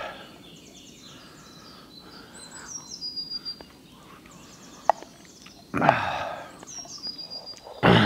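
Songbirds singing in short, repeated high trills, with a single click about five seconds in and two louder bursts of noise, one about six seconds in and one at the end.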